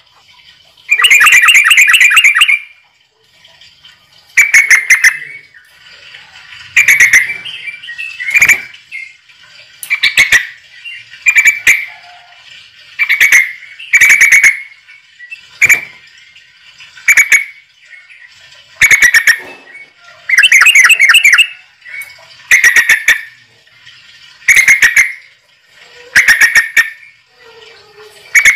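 A bird calling loudly over and over: harsh, rasping calls about every one to two seconds, some brief and some drawn out for a second or more.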